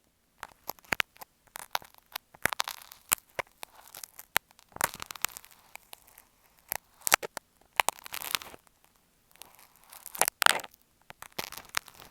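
Dressmaker's marking pins scratching and tapping on an earphone microphone: irregular scratchy bursts mixed with sharp clicks, with short pauses between.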